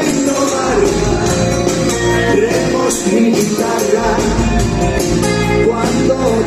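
A rock band playing with a voice singing over guitars and a steady drumbeat.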